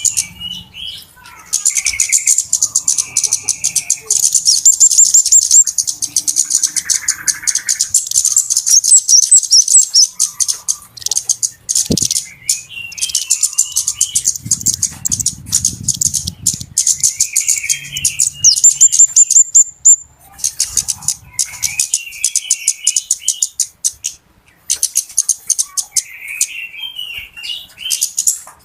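Flowerpeckers (kemade / cabe-cabean) calling noisily: rapid, high-pitched ticking chatter in long runs with short breaks, mixed with softer, lower chirps. This is a lure recording of the birds' agitated calling.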